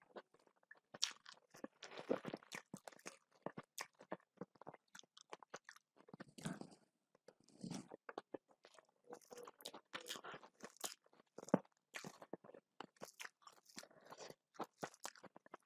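Close-miked chewing of rice and sautéed greens eaten by hand, with many irregular wet mouth clicks and crunchy bites.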